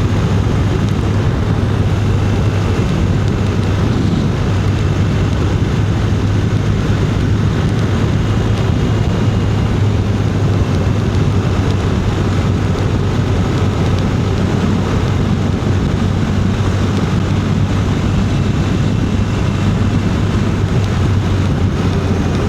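Motorcycle engine running at a steady cruising speed, with wind and road noise rushing over the rider's microphone.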